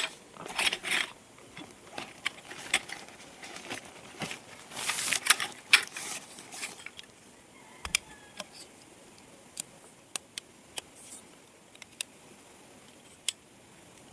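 Rustling and scraping mixed with irregular clicks and taps of objects being handled, busy for the first half, then only a few sharp single clicks.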